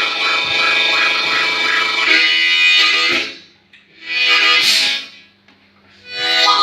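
Blues harmonica playing a train-imitation piece: chugging, pulsing chords for about three seconds, then the rhythm breaks off into separate swelling wail-like blasts with short silences between them.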